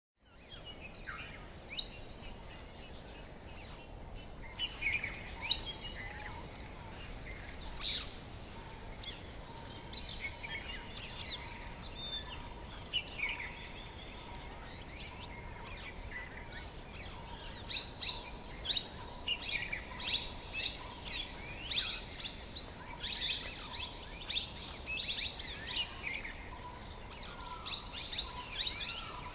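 Many birds chirping and calling over one another above a steady background hiss, the calls growing denser and louder in the second half.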